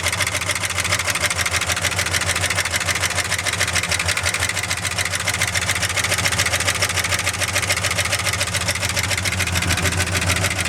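Ford 390 FE V8 idling steadily once warmed up, running through new headers and exhaust. The engine has two cylinders low on compression.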